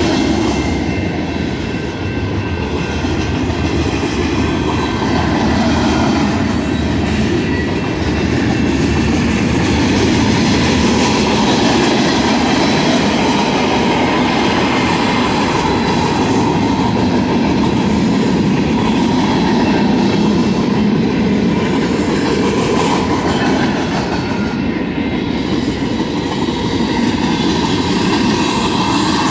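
Freight cars of a BNSF manifest train rolling past at speed: a loud, steady rumble of steel wheels on the rails.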